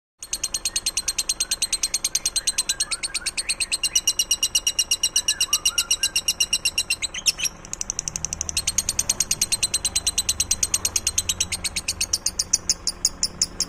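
A small songbird giving a fast, even trill of high, sharp chirps, about eight a second, with a short break about halfway through.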